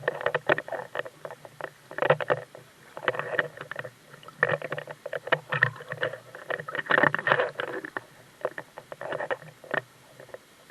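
Water splashing and sloshing close by in a mountain stream, in irregular bursts of sharp splashes. It thins out near the end.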